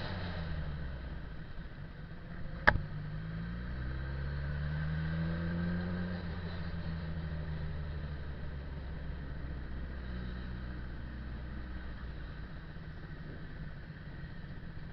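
Motorcycle engine running, its pitch rising as it accelerates a few seconds in and then settling to a steady drone. A single sharp click or knock is heard near the three-second mark.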